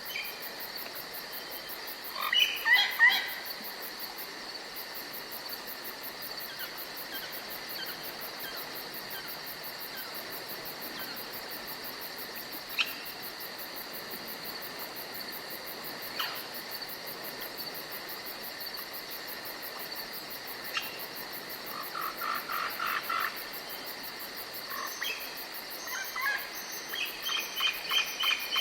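Forest ambience: a steady high insect-like buzz under a faint hiss, with wild bird calls in short bursts, a cluster of chirps about two seconds in, a quick run of pulsed notes past the middle, and rapid repeated calls near the end.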